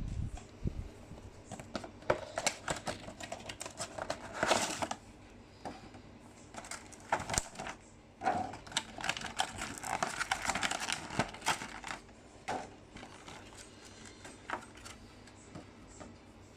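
Hands unboxing a small model airplane: packaging clicking, tapping and crinkling in quick irregular bursts, dying down to a few scattered clicks in the last few seconds.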